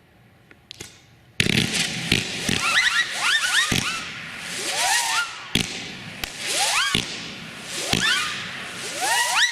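Shogun "Insane Traffic" consumer fireworks cake firing: a few faint pops, then about a second and a half in a sudden volley of launches and bursts with hiss and clusters of rising whistles, repeating in waves about every second.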